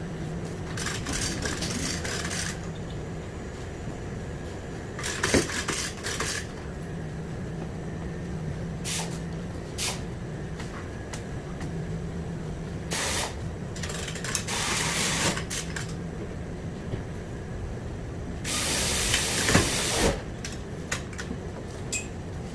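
Compressed air let out in about five separate hissing bursts, each a second or two long, the longest near the end, over a steady low shop hum.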